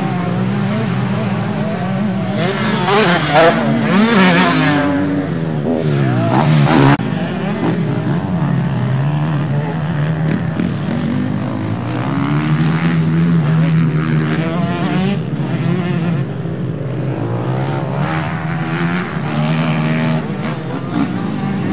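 Several motocross bikes racing, their engines revving up and down through the gears in overlapping waves, with one passing loudest about three to seven seconds in.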